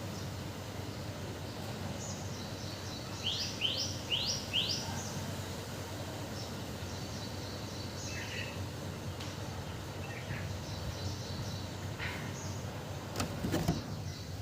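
Small bird calling: four quick rising chirps in a row a little over three seconds in, then scattered fainter chirps over a steady outdoor background hum. A brief knock sounds near the end.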